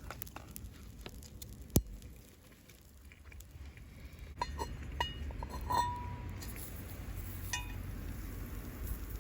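Light clinks and clicks of metal and glass camp tableware being handled, with a sharp click about two seconds in and a few short ringing clinks around five to six seconds in.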